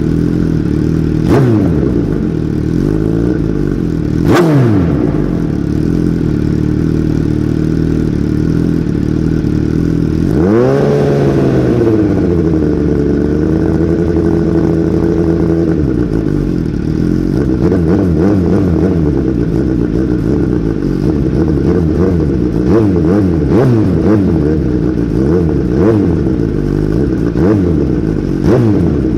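Suzuki GSX-R1000 inline-four engine running through its exhaust, its pitch rising and falling as it is revved, with one strong rev that climbs and settles about ten seconds in.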